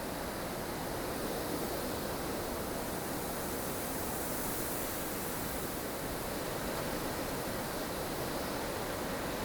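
Steady howl of strong wind in a blustery snowstorm, an even rushing noise with a slight swell in the gusting near the middle.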